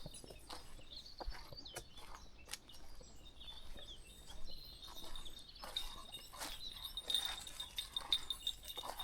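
Countryside walking ambience: scattered light footsteps and rustles on a path, over a steady high-pitched chirring in the background.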